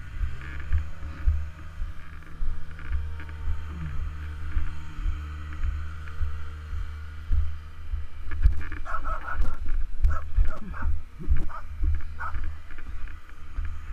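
Kawasaki KLR650's single-cylinder four-stroke engine running at low speed with a pulsing low rumble as the bike rolls slowly. From about eight seconds in, a dog barks several times.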